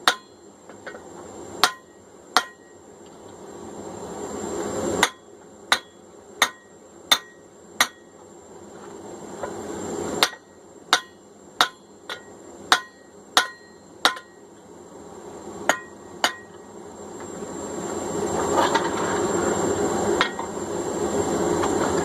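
Hand hammer blows on a hot steel hammer head being worked over a drift on the anvil, each a sharp strike with a bright metallic ring, coming in short irregular runs. A rising rush of noise builds up over the last few seconds.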